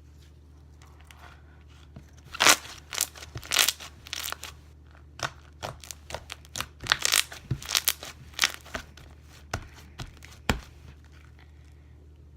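Yellow glitter slime being squished and stretched by hand for ASMR, giving irregular sticky clicks and pops from about two seconds in until near the end.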